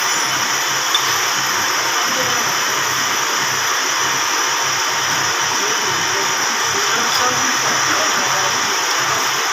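Camshaft grinding machine running steadily, its wheel grinding the cam of a Toyota 5L engine with a continuous, even grinding noise.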